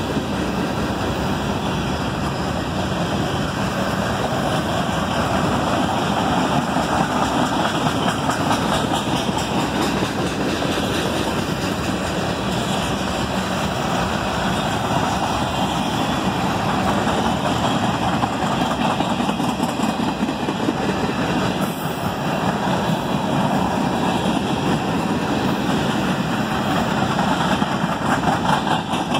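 Freight cars of a CSX train rolling steadily past, a continuous rumble of steel wheels on the rails.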